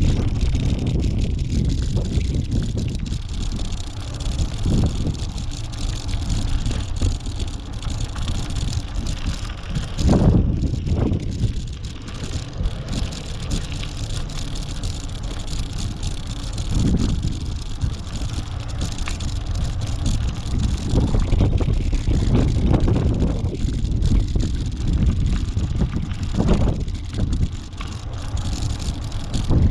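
Wind buffeting the microphone: a steady low rumble that swells in gusts, with louder surges about a third of the way in, past the middle, and near the end.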